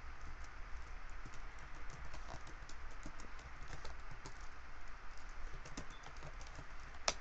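Typing on a computer keyboard: irregular light key clicks, with one sharper click near the end, over a low steady hum.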